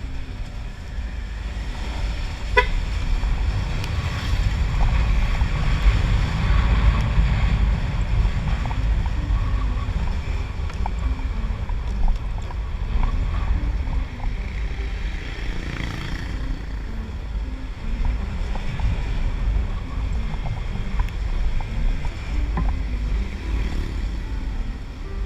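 Wind rumbling and buffeting the helmet-mounted camera microphone while riding a Honda Click 125i scooter, with the scooter's engine note faintly stepping up and down underneath. A single sharp click comes about two and a half seconds in.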